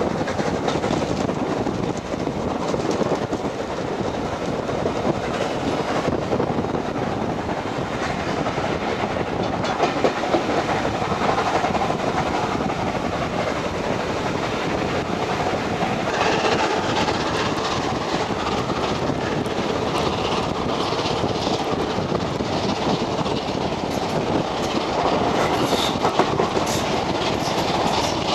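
Steam-hauled passenger train running along the line, heard from a carriage window: a steady rumble of the coaches with the clickety-clack of wheels over the rails.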